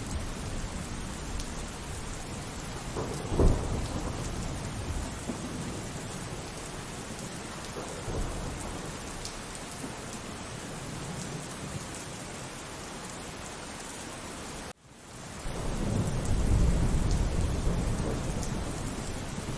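Steady rainfall with thunder: a sharp thunderclap about three and a half seconds in, and later a long low rolling rumble that builds up. Just before the rumble the sound cuts out for an instant.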